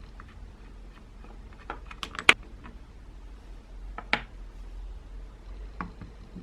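A few sharp clicks and knocks of the grinder's metal parts and tools being handled on a workbench. A quick cluster comes about two seconds in, with the loudest knock just after it, and another knock comes about four seconds in, over a low steady hum.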